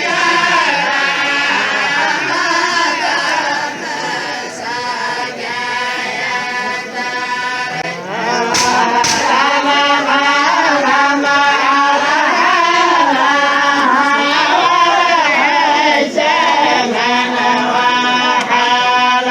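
A group of voices chanting a tribal folk song (la'ib) together, with two sharp cracks about eight and a half seconds in.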